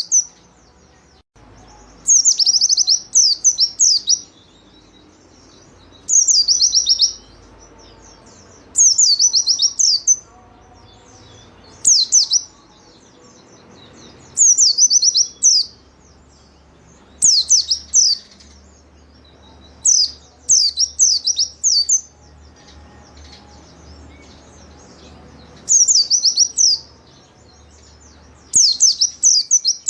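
White-eye (pleci) singing in short, energetic phrases of rapid high, falling notes, about nine bursts repeating every two to three seconds.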